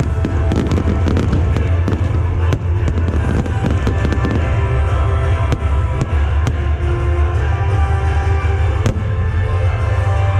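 Aerial fireworks bursting with many sharp bangs and crackles, over loud music with heavy bass played for the show.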